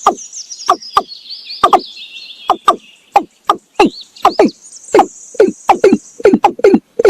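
Male watercock calling: a run of loud, hollow, repeated notes, each dropping in pitch, that come faster toward the end, with high chirping trills of insects or small birds behind.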